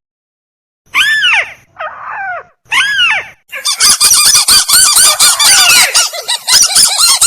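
Recorded calls of a rail (the bird Indonesian trappers call tikusan), played back as a lure: three separate loud arched calls about a second apart, then about halfway through a fast, dense run of overlapping calls.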